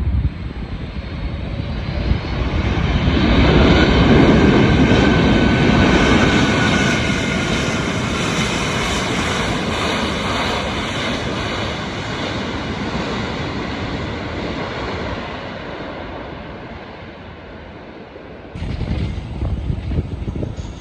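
Arriving airliner passing close overhead: its engine noise swells to a peak a few seconds in, with a whine slowly falling in pitch, then fades away. Near the end a different rough noise cuts in suddenly.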